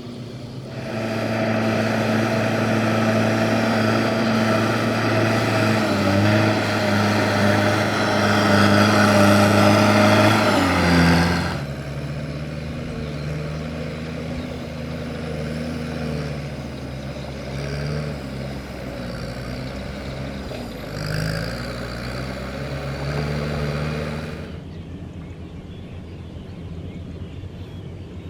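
Kubota M6040SU tractor's diesel engine running, loud and steady for about ten seconds, then dropping to a lower pitch that rises and falls a little. Near the end the engine sound fades down.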